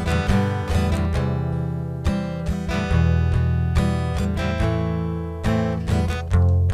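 Acoustic guitar strumming chords in an instrumental break of a song, over a steady low bass.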